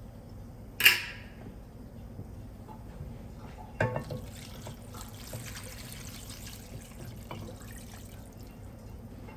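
Broth being poured from a glass jar into a soup pot, a faint uneven splashing. It is preceded by a sharp click about a second in and a knock near four seconds.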